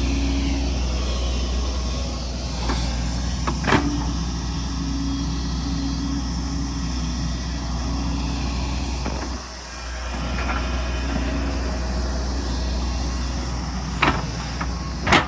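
Excavator's diesel engine running steadily at working revs, its note dipping briefly about halfway through. Sharp knocks sound over it about four seconds in and twice near the end.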